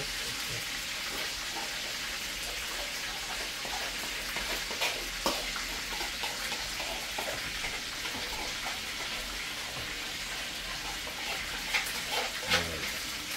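Chicken wings frying in a pan of oil: a steady sizzle, with a few sharp clicks and knocks of kitchenware, the loudest about twelve seconds in.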